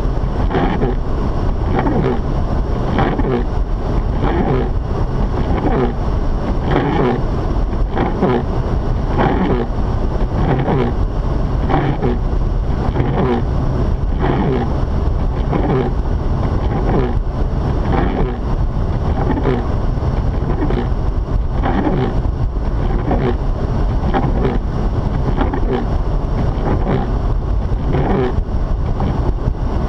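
Mazda RX-8 driving in snow, heard from inside the cabin: its rotary engine, the tyres and the wind make a steady low noise, with a faint swish that repeats about once a second.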